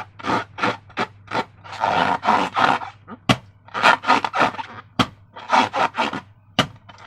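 Slime being squished and worked by hand: a quick run of wet squelching sounds, with a few sharp clicks mixed in.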